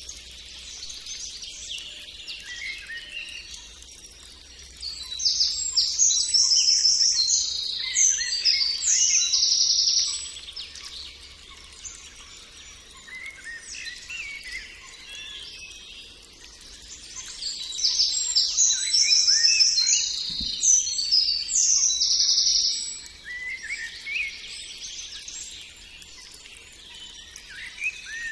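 Birdsong: several birds chirping and calling, with two louder stretches of rapid trilling, about five seconds in and again about eighteen seconds in.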